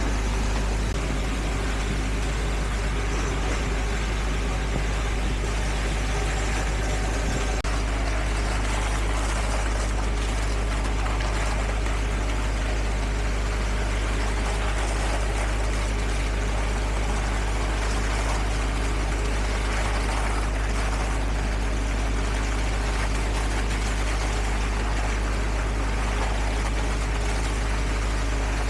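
Heavy diesel construction machinery running steadily, a constant low engine drone.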